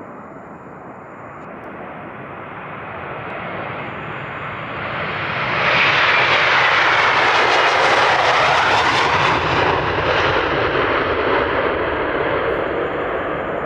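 Jet airliner taking off past the microphone: the engine roar builds steadily, is loudest about halfway through with a whine sweeping down in pitch as it passes, then slowly fades.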